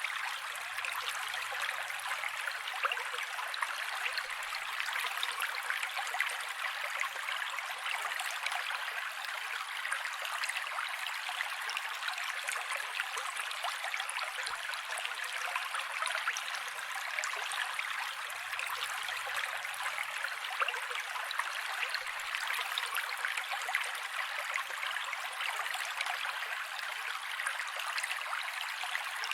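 Mountain creek flowing steadily: a constant rushing, splashing water sound, all bright hiss with no deep rumble.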